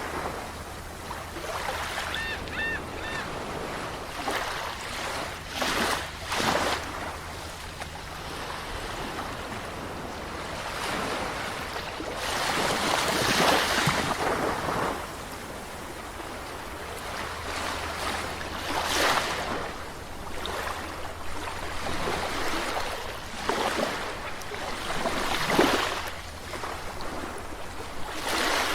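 Sea waves washing in and drawing back, rising to a surge and fading every few seconds, with the longest swell near the middle.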